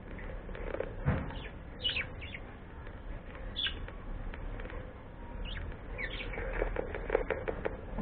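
A pet bird chirping in short high calls several times, over rustling and light knocks that suggest wing movement or scuffling.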